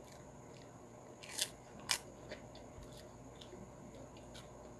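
A puffed prawn cracker (kerupok) bitten and chewed close to the microphone: two loud, sharp crunches about a second and a half and two seconds in, then faint crackling chews.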